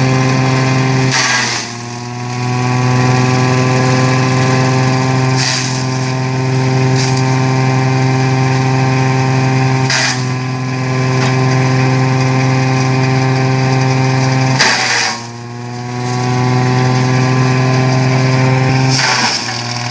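Tractor-driven coconut leaf cutter-shredder running with a steady drone. Three times it briefly drops in pitch under load, with a burst of cutting noise, then picks back up to speed.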